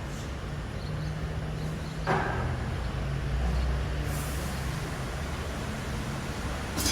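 Mercedes-Benz Arocs garbage truck's diesel engine running steadily, with a clunk about two seconds in, a brief hiss of air around four seconds in, and a sharp metallic clank near the end.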